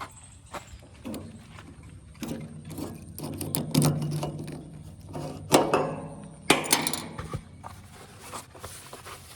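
JCB 3DX backhoe loader's diesel engine running low, under irregular clanks and rattles from the machine, with two sharp loud knocks around the middle.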